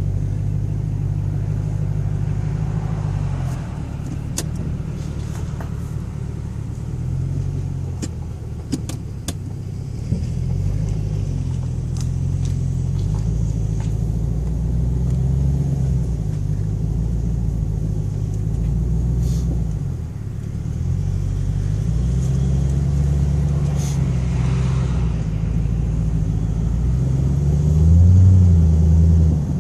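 Ford Thunderbird's engine running on the move, its low drone rising and falling in pitch as the car speeds up and slows. A few light clicks come between about four and ten seconds in, and near the end the engine gets louder and higher as the car accelerates.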